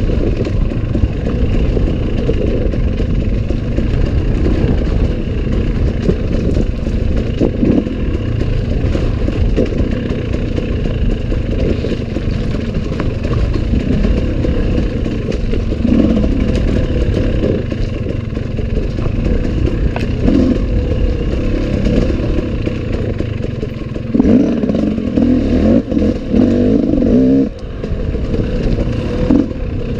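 Steady low rumble with scattered clatter and flapping, typical of wind buffeting and movement noise on a camera carried by a runner. The rumble turns louder and choppier for a few seconds near the end.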